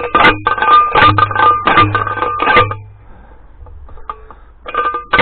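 Steel T-post being hammered in with a post driver: a rapid run of metal clanks, each ringing with the same metallic tones. The strikes pause for about two seconds and start again near the end.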